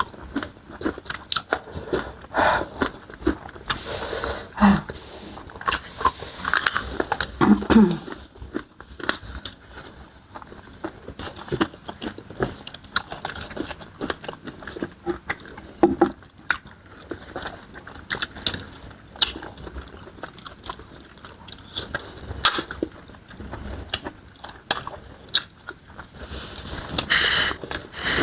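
Close-miked mouth sounds of people eating: chewing and biting with many short clicks and smacks scattered irregularly throughout.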